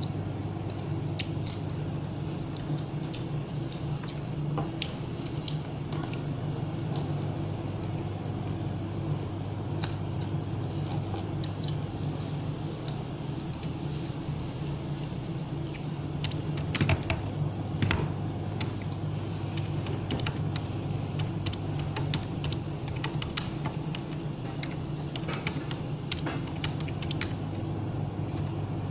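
Crisp crunches and clicks of unripe green mango being bitten and chewed, scattered throughout, with two louder crunches a second apart past the middle, over a steady low hum.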